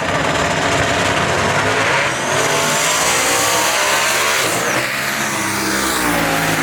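High-powered drag cars at full throttle accelerating down the strip, their engine note climbing with a break near the middle as they shift gears.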